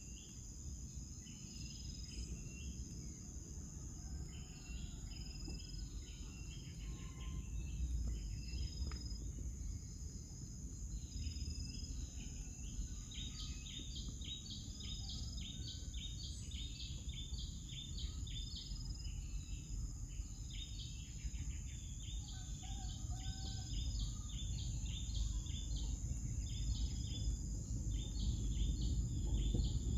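Outdoor ambience: a steady high insect drone, with quick runs of short bird chirps over a low rumble. The chirps come thicker in the second half.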